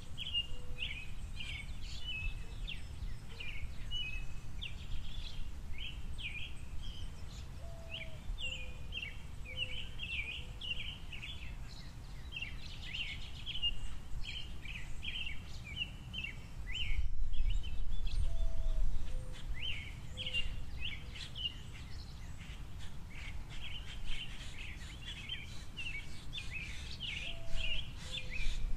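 Small songbirds, finches among them, chirping in a steady stream of many short, high notes. Under them runs a low background rumble that swells for a couple of seconds past the middle.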